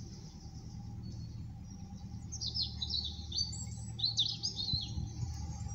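A songbird twittering: a quick run of high chirps starting about two seconds in, over the steady low hum of the narrowboat's engine.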